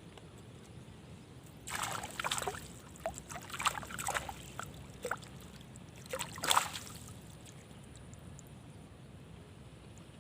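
Water splashing and sloshing in irregular bursts: a cluster from about two to five seconds in, and a last, loudest splash around six and a half seconds.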